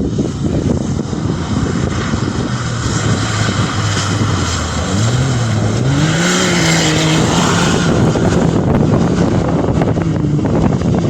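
Engine of a distant vehicle running, its pitch rising about halfway through and then holding steady, over a steady noisy rush of wind on the microphone.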